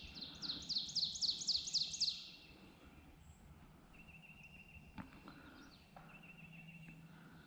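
Songbirds singing: a loud, rapid series of about ten high whistled notes for the first two seconds, then a fainter repeated high-pitched song behind it. There is a single sharp click about five seconds in.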